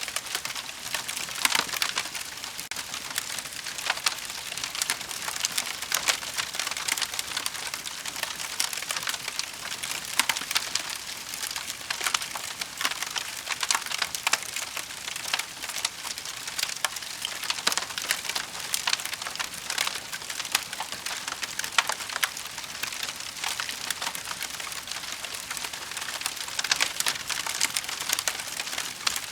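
Wood fire burning, a steady hiss full of quick, irregular crackles and pops from the burning logs.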